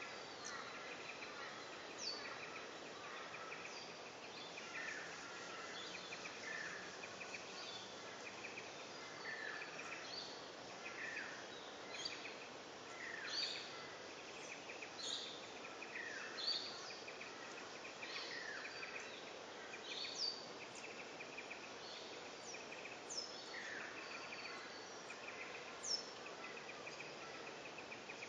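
Small birds calling outdoors: short, sharp chirps that slide downward, repeated every second or two, over a steady hiss and a fast pulsing trill in the background.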